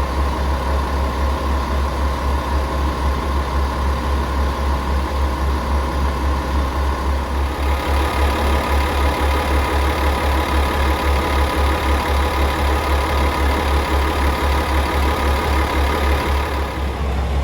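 Komatsu diesel engine of a KiHa 40/47 railcar idling with a steady, evenly pulsing low throb. About eight seconds in, a louder hiss joins above it.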